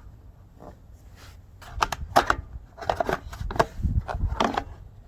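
A loose run of short clicks and knocks, closer together and louder in the second half, as from objects being handled.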